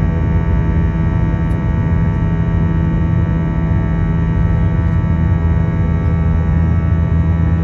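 Airbus A321's twin jet engines droning inside the passenger cabin: a loud, steady hum made of many fixed tones, heaviest in the low range.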